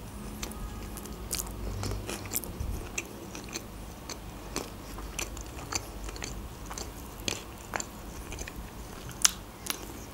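Close-miked mouth sounds of a person biting and chewing an open sandwich of bread with cream cheese, herring and red onion: irregular wet clicks and crunches, one sharper click about nine seconds in.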